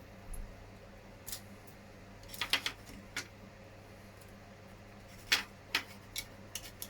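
Small hard injection-moulded plastic parts of an RC truck body clicking and tapping as they are handled and fitted together: scattered sharp clicks, with a quick cluster of three about two and a half seconds in. A faint steady hum runs underneath.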